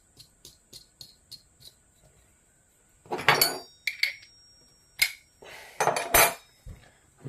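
Small metal parts being handled, clinking and clattering against each other and the bench in several sharp knocks with a short metallic ring, the loudest about three seconds in and again near six seconds.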